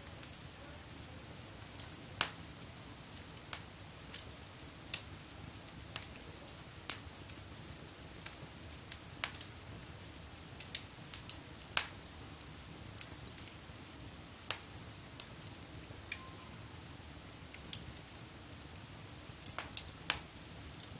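Wood fire burning in a fireplace, crackling with irregular sharp pops over a steady low hiss; a few pops are much louder than the rest.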